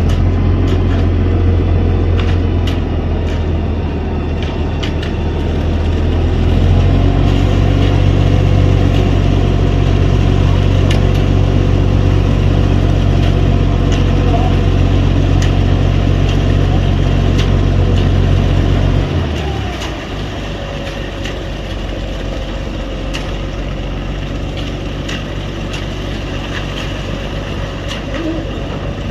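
Large engine running steadily with a deep hum. Its note steps up about seven seconds in, then drops back to a quieter, lower running about nineteen seconds in.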